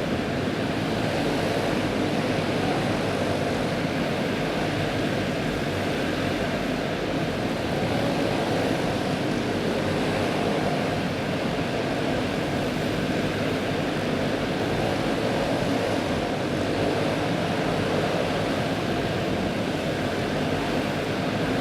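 A field of Pro Clone 360 racing go-karts with single-cylinder four-stroke clone engines running at racing speed, their engines blending into one steady, unbroken drone.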